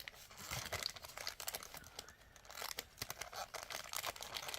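Plastic packaging crinkling and rustling in irregular crackles as a strand of beads is pushed back into it.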